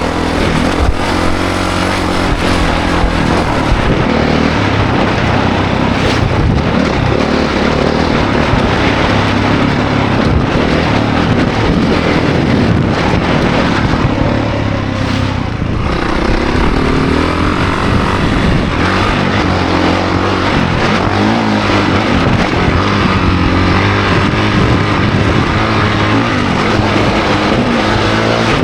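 Honda CRF450 dirt bike's single-cylinder four-stroke engine at speed, its pitch rising and falling repeatedly as the throttle is worked on and off.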